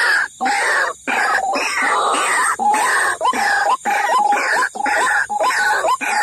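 White-breasted waterhen (ruak-ruak) lure call: a loud, harsh call repeated rapidly, about two notes a second with short upward-sliding notes, in a continuous series.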